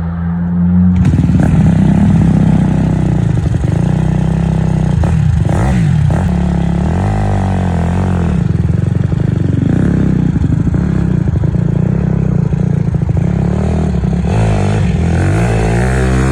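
Dirt bike engine running loud and revving up and down repeatedly, its pitch rising and falling several times.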